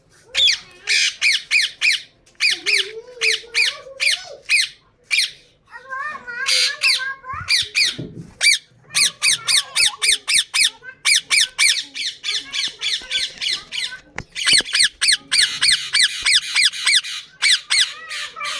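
Indian ringneck parakeets squawking: loud, harsh, shrill calls in fast runs of about four a second, broken by short pauses.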